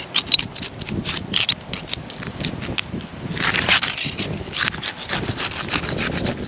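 Asphalt shingles being unsealed: rapid irregular crackling and scraping as the sealant bond between the shingle courses is broken, heaviest about three to four seconds in.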